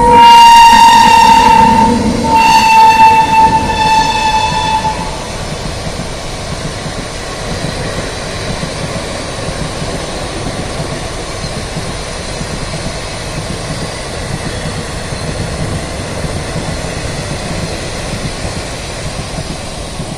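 Indian Railways electric locomotive sounding two long one-note horn blasts, the second ending about five seconds in. Then comes the steady rumble and clatter of its train of coaches running past at speed.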